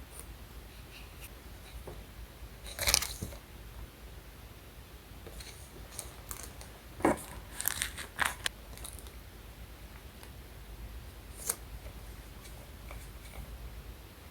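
Paper and stationery being handled while decorating a diary: scattered short rustles, taps and clicks. The loudest is about three seconds in, and a quick run of them comes just past the middle.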